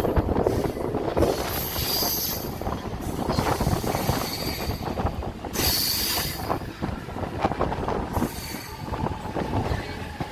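Mumbai suburban local train running, heard from inside a coach: a constant rumble and clatter of wheels on track, with a high wheel squeal that comes and goes three times.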